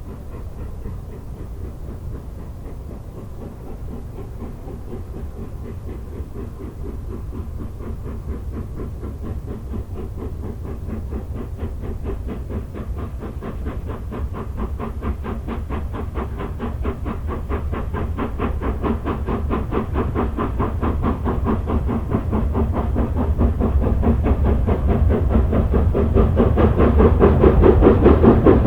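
Steam locomotive and its train approaching, a fast even beat growing steadily louder over a low rumble.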